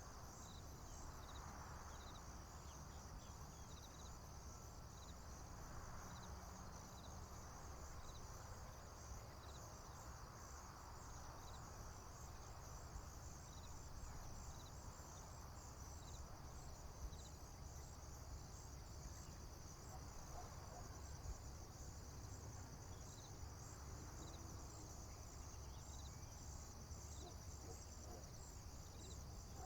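Faint, steady chorus of crickets and other insects trilling high and continuously, with short chirps repeating evenly a little lower in pitch, over a low steady rumble.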